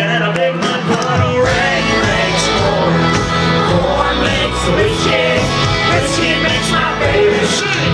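Live country-rock band playing loudly, with drums and guitars and a male lead vocal over them.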